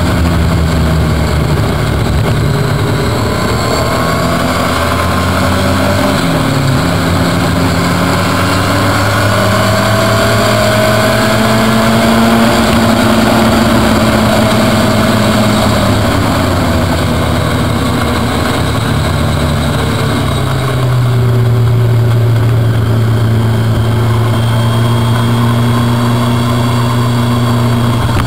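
Car engine running hard at track speed, its pitch rising and falling with the revs and dropping sharply about six seconds in and again around twenty seconds in. A steady rush of wind and road noise runs under it.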